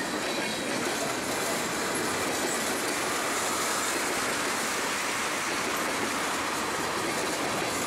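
Freight cars of a mixed manifest train rolling past close by: a steady rush and rumble of steel wheels on the rails that does not let up.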